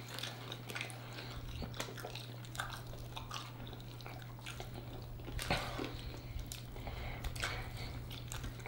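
Close-miked chewing, sucking and wet mouth clicks of people gnawing meat off sauced chicken wing bones: a scatter of soft smacks and clicks over a steady low hum.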